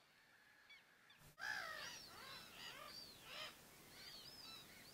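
A flock of whooper swans calling, a chorus of many overlapping honking whoops that starts about a second and a half in after near silence.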